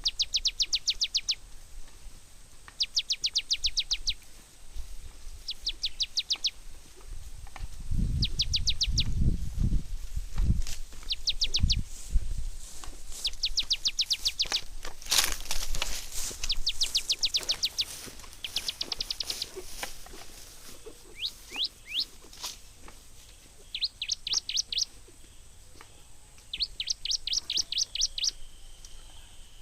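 A songbird repeating short trills, each a quick run of about eight to ten high downward-sweeping notes, every couple of seconds. A low rumble comes in briefly from about eight to twelve seconds in.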